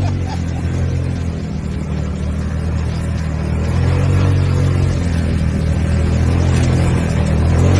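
ATV engine running under way, a steady low drone that grows a little louder in the second half.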